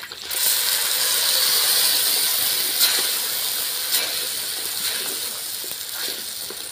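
Ground tomato puree poured into hot oil and sautéed onions in a clay pot, sizzling hard as it hits the oil about half a second in, then slowly dying down. Two sharp clicks come about three and four seconds in.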